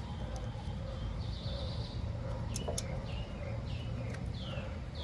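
A bird calling a run of short, quickly falling chirps, starting about halfway through, over a steady low background rumble. A couple of sharp clicks come just before the chirps.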